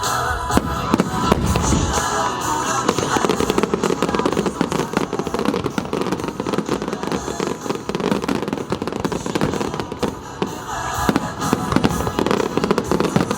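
Fireworks bursting and crackling in quick succession over continuous music.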